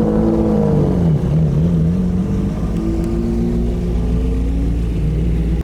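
Car engine running under throttle, its pitch dipping and rising twice in the first two seconds, then holding and climbing slowly. It cuts off abruptly at the end.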